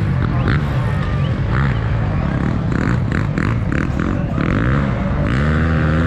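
Motocross dirt bike engines running, with voices in the crowd scattered over them. Near the end one engine revs up, its pitch rising.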